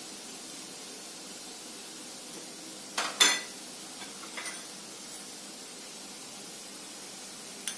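Steady frying sizzle from a steel pot of onions and mashed raw banana, with a sharp utensil clink about three seconds in, lighter clinks around four and a half seconds, and another near the end as chilli powder is spooned in.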